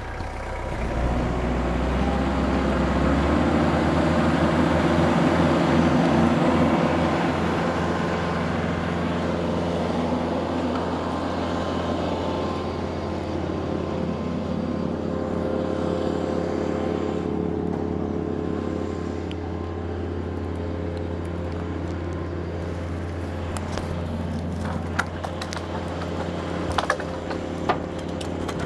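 Tractor engine revving up over the first few seconds, then running steady at PTO speed as it spins a Woodland Mills WC68 PTO wood chipper's flywheel. A few sharp clicks come near the end.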